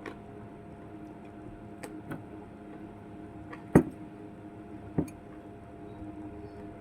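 A few short, sharp clicks and knocks, the loudest a little past the middle and another about a second later, over a steady low hum.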